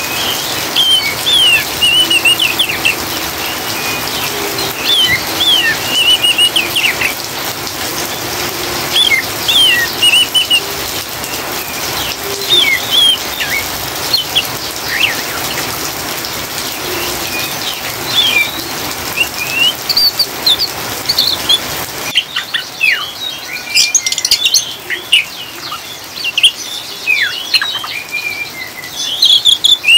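Oriental magpie-robin (kacer) giving its rapid twittering 'ngriwik' chatter of quick chirps and short whistles over steady rain. About two-thirds of the way in, the rain noise drops away suddenly and the chatter goes on against a quieter background.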